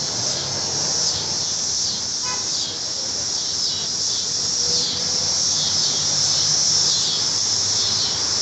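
Chorus of cicadas buzzing in the trees: a steady high drone that keeps swelling and falling away, about once a second.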